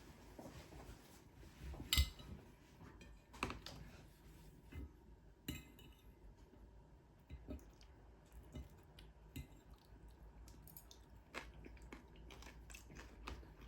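Quiet kitchen handling sounds: scattered light clinks and taps of dishes and utensils, the sharpest about two seconds in.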